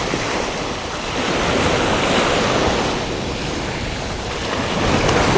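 Surf washing onto a beach, a steady rush of breaking waves that swells twice, with wind buffeting the microphone.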